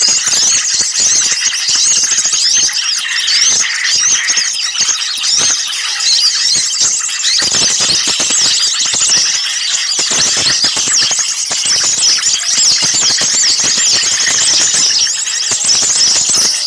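Dense, noisy chorus of many small songbirds chattering and squeaking at once: a continuous tangle of rapid, high, overlapping chirps. It is a bird-trapping lure recording of agitated small birds.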